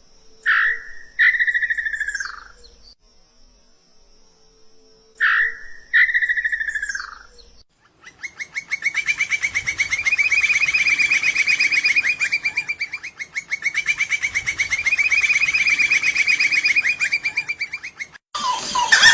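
Bird song from two different birds. First, two phrases, each a short high note followed by a falling, slurred whistle. Then, after a break, a second bird sings a long, rapid, even trill for about ten seconds before it cuts off.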